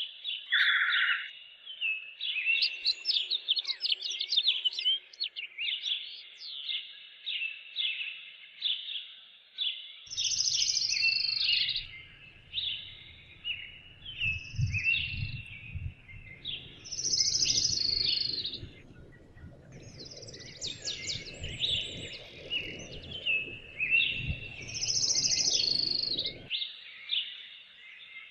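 Songbirds singing, many short repeated chirps overlapping with louder whistled phrases every few seconds. A low rumbling noise comes in about a third of the way through and cuts off abruptly near the end.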